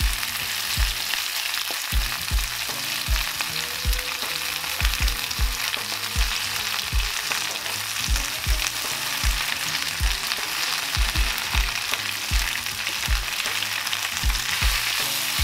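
Fresh spinach leaves cooking in hot olive oil in a skillet: a steady sizzle with irregular low pops, about two a second.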